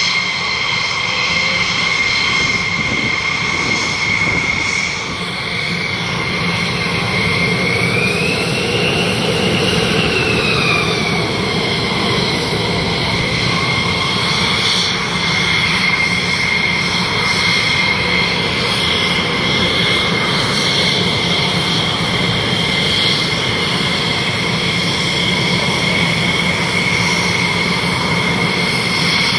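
Aerobatic propeller plane's engine running in a steady high drone during a display routine, its pitch rising and falling back once about a third of the way through.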